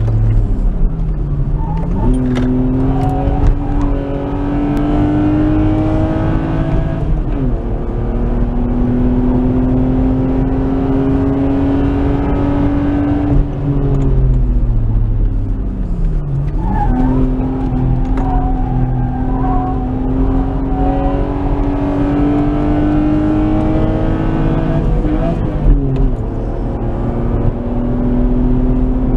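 Nissan Skyline R33's RB20E 2.0-litre single-cam straight-six, heard from inside the car under hard acceleration, its note climbing steadily through the gears. There are upshifts about seven and twenty-five seconds in, and the revs fall from about fourteen to sixteen seconds in as it slows for a corner, then climb again.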